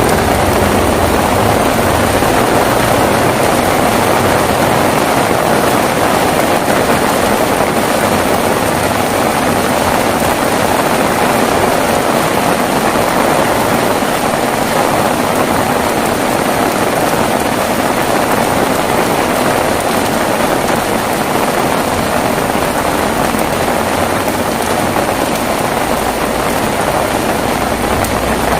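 Heavy rain falling steadily, an even unbroken wash of sound.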